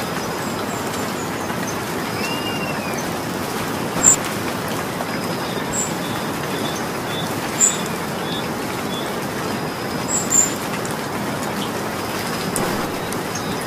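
Steady rain falling, with a few louder single drops striking a surface about four, seven and ten seconds in. Faint short bird chirps sound through the rain.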